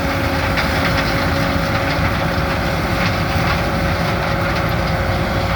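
Combine harvester running steadily while harvesting corn: a continuous machine roar with a low engine drone and a steady whine.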